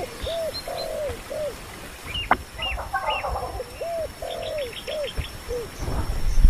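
Birds calling: two runs of low, arched call notes with short higher chirps between them, and a quick series of high ticks a little after the middle. A low rumble rises near the end.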